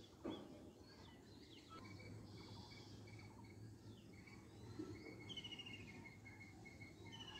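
Faint outdoor ambience with birds calling: a series of short repeated notes, about three a second, and a quick falling trill about five seconds in. A brief thump just after the start.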